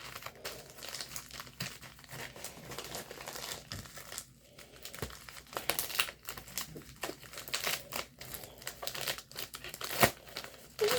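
Packaging crinkling and rustling in irregular bursts as a package is unwrapped by hand, with some tearing and a sharper crackle about ten seconds in.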